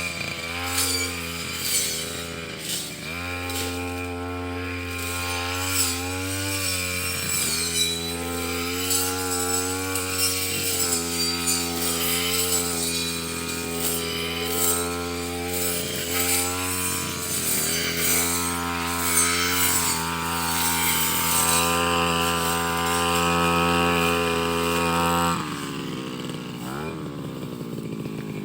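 Brush cutter engine running at high revs, its pitch dipping briefly again and again as the blade cuts through undergrowth. The pitch drops a few seconds before the end.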